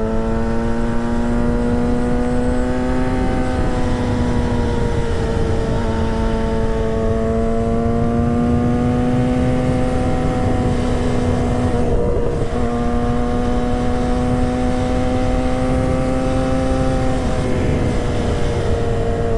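2008 Yamaha YZF-R6's inline-four engine running at a steady high pitch while riding, sagging and rising slightly, with a brief break about twelve seconds in, over a constant wind rush.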